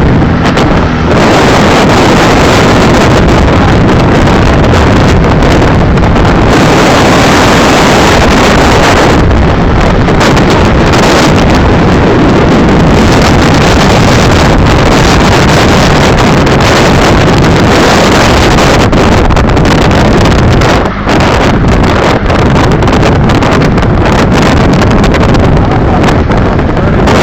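Strong wind buffeting the microphone: a loud, continuous rush heavy in the low end, with a brief lull about 21 seconds in.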